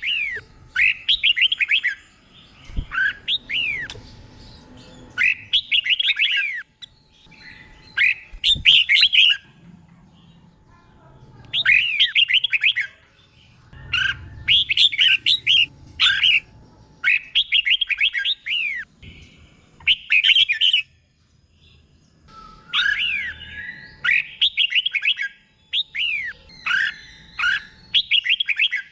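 Red-whiskered bulbul singing: short, bubbly whistled phrases about a second long, repeated over and over with brief pauses between them.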